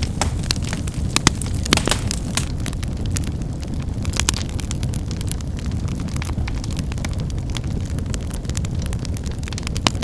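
Wood fire burning, with a steady low rush and irregular sharp crackles and pops of snapping firewood. The loudest pops come just over a second in and just before the end.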